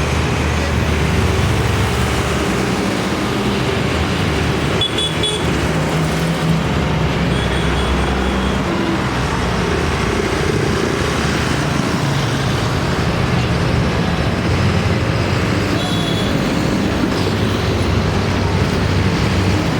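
Tractor engines running steadily as tractors pass in a parade, with a few brief high-pitched tones heard over them.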